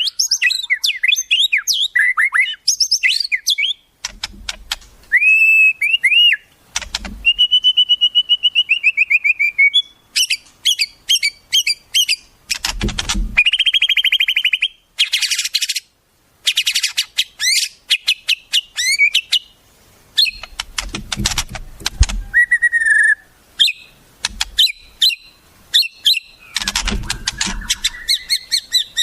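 Songbirds singing a fast, varied sequence: clear whistled glides, quick runs of repeated notes and harsh rasping bursts, with short pauses between phrases. This is masteran song material for teaching a white-rumped shama wild-bird phrases.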